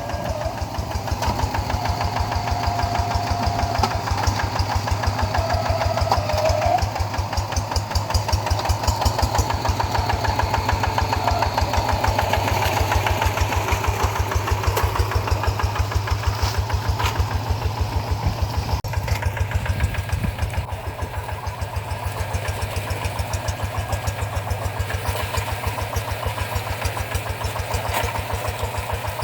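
Rice-field tractor's engine running with a steady, rapid thumping rhythm, easing slightly in loudness about two-thirds of the way through.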